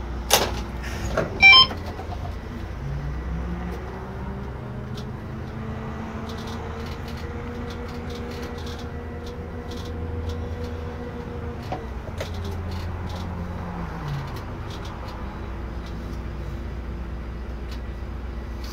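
Irisbus Récréo II coach's diesel engine running with the ZF EcoMat automatic gearbox, its pitch rising slowly, holding, then falling back as the coach creeps into position. Two sharp loud clicks come near the start, and faint ticks are scattered through.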